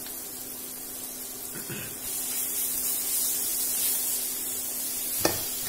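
Coarsely ground ginger, green chilli and curry-leaf masala sizzling in hot mustard oil in a kadhai while it is stirred with a spatula. The hiss grows stronger about two seconds in, and there is a single sharp knock near the end.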